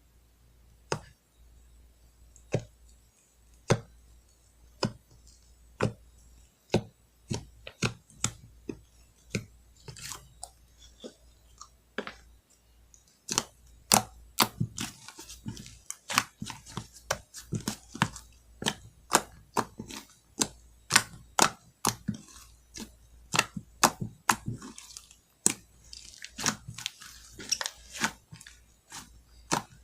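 Slime with heart and star glitter being squeezed and poked by hand, making sharp clicky pops. The pops come about once a second at first, then faster, several a second, from about halfway through, with a soft sticky crackle between them.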